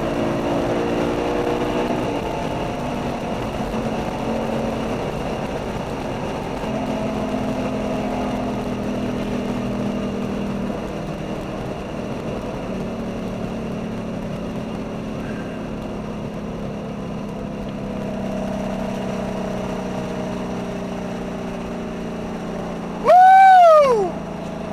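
V8 engine of a sports car heard from inside the cabin, pulling steadily at speed with a few small steps in pitch, over road and wind noise. Near the end, a loud tone rises and falls in pitch for about a second.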